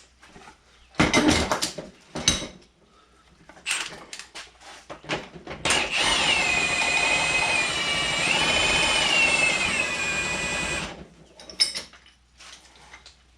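A few clanks of heavy steel tools being handled, then an electric power tool's motor runs for about five seconds, its pitch sagging and rising again as it takes load.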